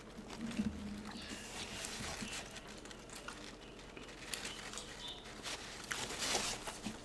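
Close-up eating sounds of a saucy fried fish sandwich being chewed: many short wet mouth clicks, with some crinkling, and a louder stretch about six seconds in.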